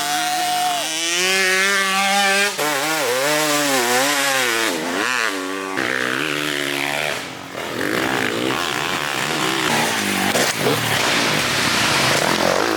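Small single-cylinder pit bike engines racing, revving up and down as the riders open and close the throttle. One bike is clear and close for the first half, then several engines blend together.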